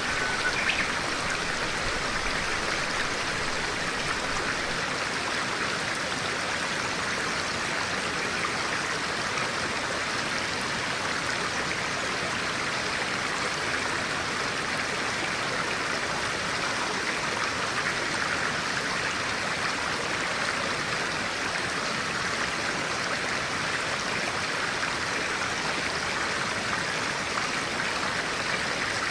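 Clear-water stream running steadily, a continuous even rush of water. A single short bird chirp sounds just after the start.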